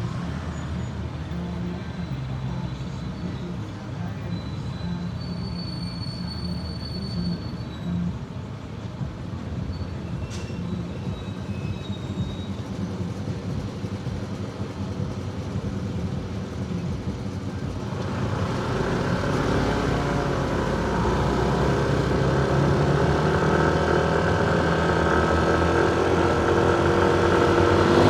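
Motorcycle engine running in city traffic, with road noise. About eighteen seconds in the engine sound grows louder and its pitch climbs slightly, as under acceleration.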